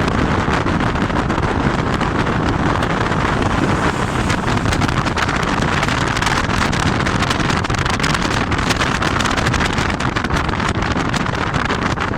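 Steady wind buffeting the microphone over the running noise of a moving vehicle, with no speech.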